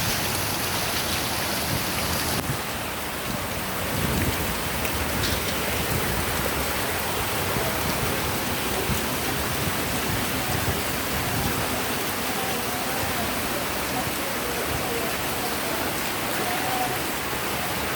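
Steady rush of water from a mountain stream, with faint children's voices in the second half.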